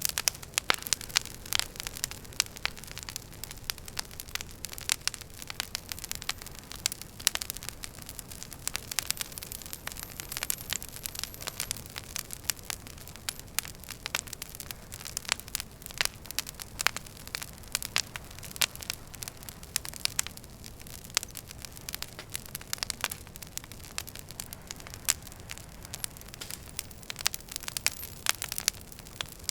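Wood fire burning in a fireplace, crackling: irregular sharp snaps and pops, several a second, over a low steady rumble and hiss of the flames.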